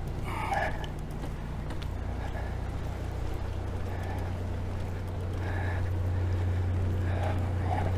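Perkins 4-108 four-cylinder marine diesel running at a steady idle, giving a low, even drone.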